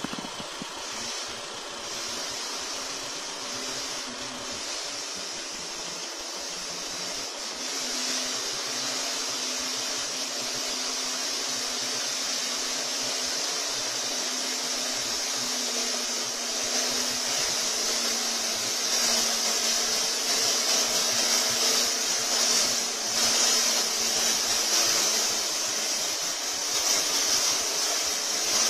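Isuzu Bighorn SUV engine running steadily: a constant hum under a hiss, growing gradually louder.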